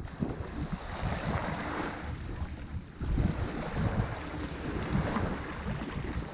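Ocean waves breaking on a shore, the surf's hiss swelling twice, with wind buffeting the microphone in a low rumble.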